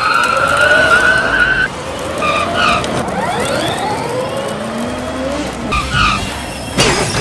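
Race-car engines revving, several pitches rising and falling over one another, with tyre-skid noise and a sharp noisy burst near the end.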